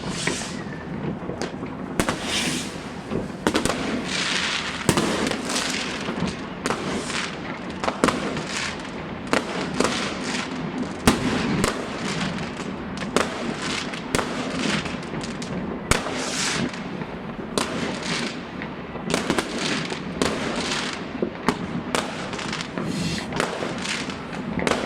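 Fireworks going off continuously: many overlapping sharp bangs and cracks, several a second, some followed by a short hissing crackle, with firecrackers mixed in.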